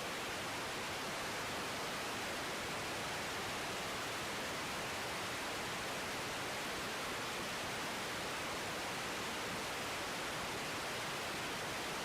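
Steady, even hiss of the air traffic control radio feed between transmissions, with no voice and no aircraft engine heard.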